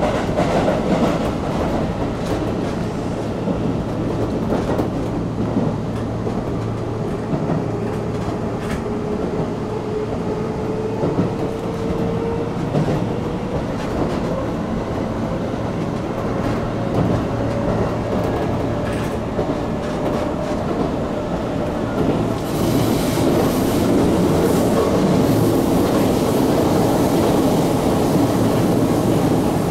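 Keisei 3400 series electric train running on the line, heard on board: steady rumble of the wheels with clickety-clack over the rail joints and a faint whine that slowly rises in pitch. About 22 seconds in, the running noise grows louder and brighter.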